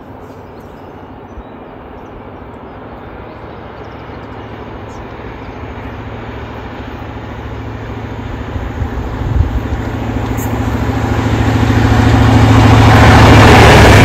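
A CrossCountry HST with a Class 43 diesel power car approaching at speed and passing close. The engine hum and the rush of wheels on rail grow steadily louder, peaking near the end as the train goes by. A single short sharp knock comes about two-thirds of the way through.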